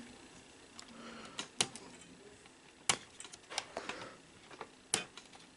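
Scattered small sharp clicks and taps from parts of an open VCR tape mechanism being handled: plastic gears and small metal pieces knocking as they are pried at and lifted, three louder clicks among fainter ticks.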